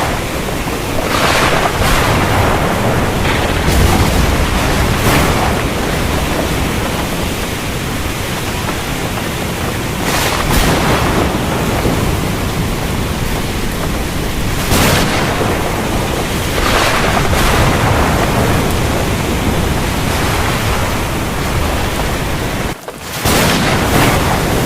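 Heavy rain falling steadily, with low rumbles of thunder swelling and fading several times. The sound drops out briefly near the end.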